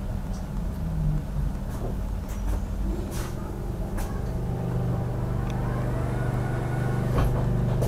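Passenger train rolling to a stop at a station platform, heard from inside the carriage: low running rumble with a few sharp clunks. About five seconds in, a steady low hum from the standing train's equipment grows stronger.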